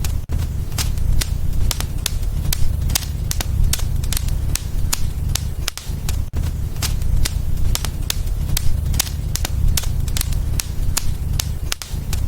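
Wood fire burning in a fireplace, crackling with sharp pops several times a second over a steady low rumble of flames.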